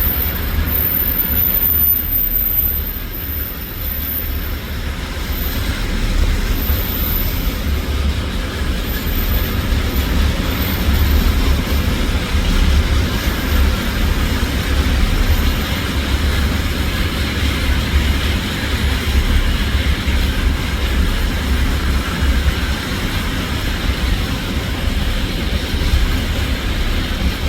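Goods train rolling past, its wagons running on the rails with a continuous, steady low rumble.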